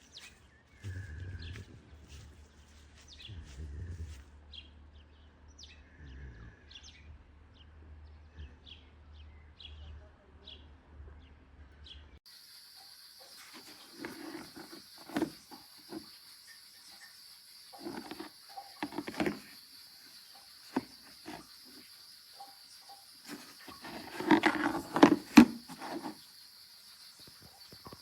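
Outdoor ambience: short, high chirps over a low rumble, then, after a sudden change about twelve seconds in, a steady high-pitched insect-like drone with scattered knocks and rustles, loudest about three-quarters of the way through.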